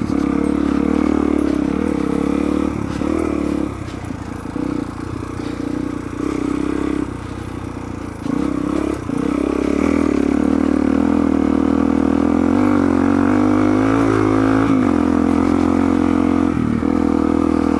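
Suzuki DR-Z400's single-cylinder four-stroke engine running as the bike is ridden, steady on the throttle at first. It eases off between about 4 and 9 seconds in, then comes back on and holds higher revs.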